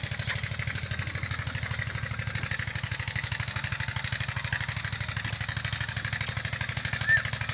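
An engine idling steadily with an even, rapid pulse, with a brief high chirp about seven seconds in.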